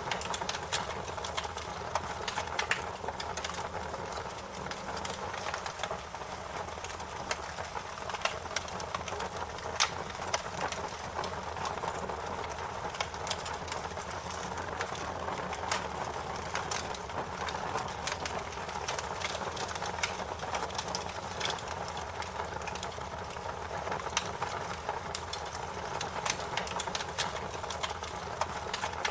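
Wood fire crackling: frequent sharp pops and snaps at irregular times over a steady rushing hiss of flame.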